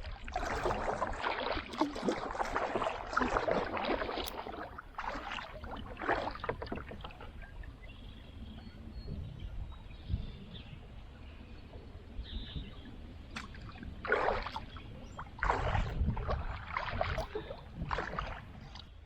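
Kayak paddle strokes splashing and dripping in the river water, a close run of strokes over the first several seconds, a quieter stretch, then a few more strokes near the end.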